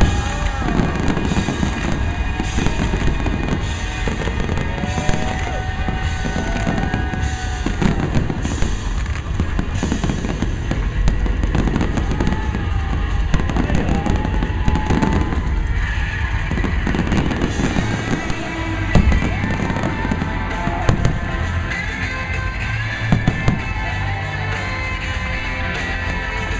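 Aerial fireworks shells bursting in quick, continuous succession, with music playing underneath.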